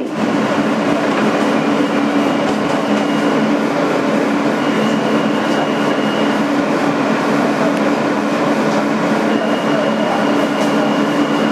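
Steady interior noise of an R-160B New York City subway car: an even rumble with a constant low two-tone hum and a faint high tone that comes and goes.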